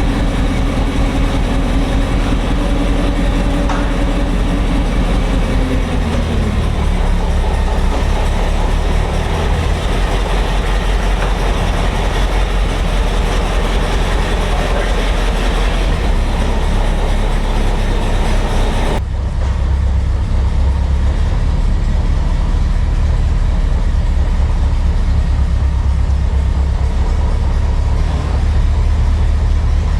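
Rolls-Royce B80 straight-eight petrol engine of an Alvis six-wheeled armoured vehicle running loudly. Its pitch falls about six seconds in as the revs drop. The sound changes abruptly about two-thirds of the way through, then the engine runs steadily.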